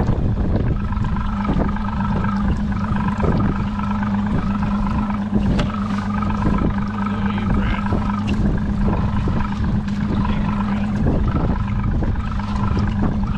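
A boat's motor running at a steady pitch, with wind buffeting the microphone.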